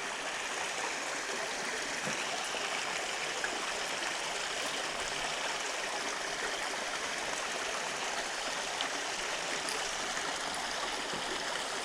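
Creek water running steadily over rocks, an even rushing and trickling.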